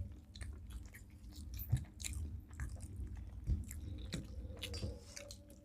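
Close-up mouth sounds of someone eating rice and curry: irregular chewing, biting and lip-smacking clicks, with a few small crunches.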